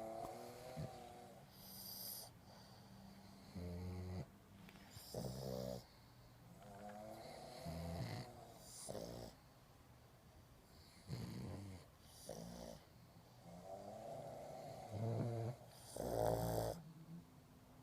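A pug snoring in its sleep: a run of uneven snores and snorts every one to two seconds, the loudest near the end.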